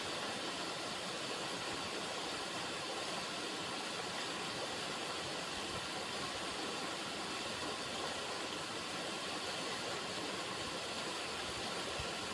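River water running over rocks, a steady rushing.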